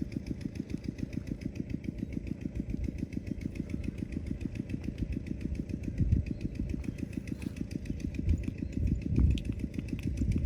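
A small motor running steadily with a rapid, even pulse, and a few louder low thumps in the second half.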